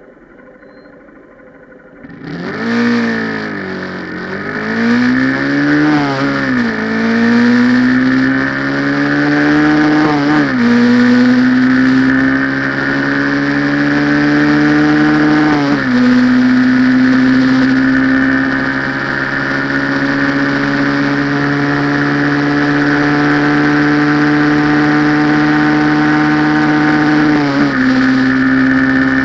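Honda CG 150's single-cylinder four-stroke engine through an aftermarket Roncar Aluminium muffler, running without an air filter, accelerating hard at full throttle: the pitch climbs and drops sharply at four upshifts, then holds in top gear with the pitch creeping up slowly as the bike nears top speed.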